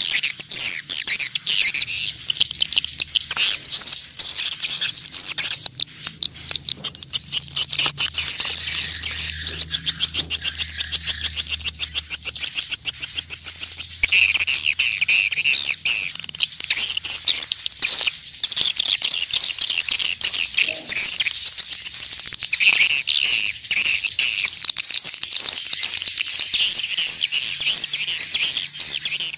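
Swiftlet calling sound: many swiftlets twittering, a dense, continuous stream of fast, high, wavering chirps. This is the kind of call played to lure swiftlets into a nesting house.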